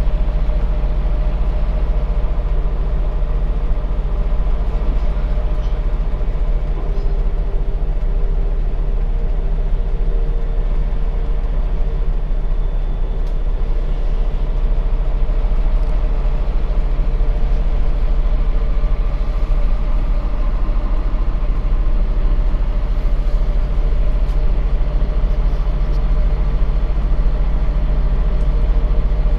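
Scania bus's diesel engine running steadily with a constant low rumble, heard from inside the passenger cabin; the pitch holds level with no revving.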